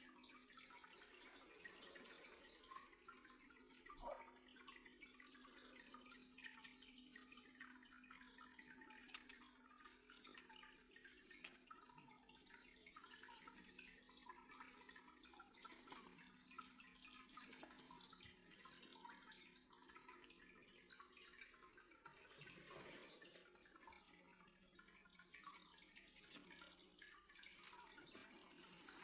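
Near silence: faint room tone with a low steady hum that fades out about two-thirds of the way through, and scattered faint ticks.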